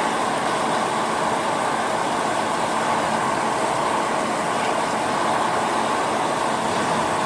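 CNC lathe running with a steady, even machine noise that does not change.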